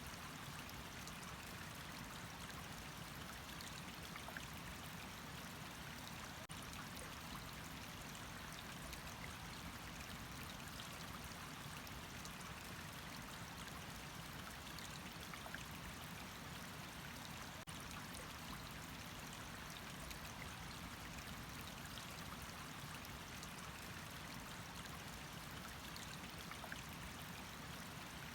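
Running water, a steady even rushing and splashing that does not change.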